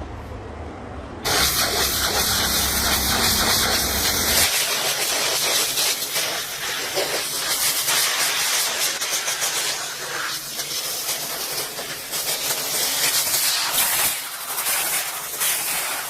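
Loud, steady hiss of a spray or compressed-air jet that starts suddenly about a second in, with a low hum underneath that stops about four seconds in.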